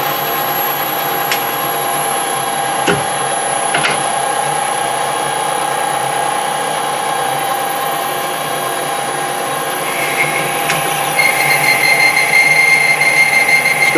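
Metal lathe running with a boring bar taking a light first cut (about ten thou) inside a drilled hole, cleaning out the roughness left by the drill: a steady machine whine with a few sharp clicks early on. About ten seconds in, a higher steady tone joins and the sound gets slightly louder.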